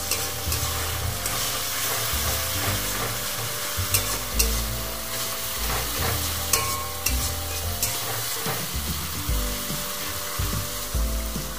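Onion-and-spice masala sizzling in a hot pan while it is stirred, with a few sharp knocks of the spatula against the pan in the middle.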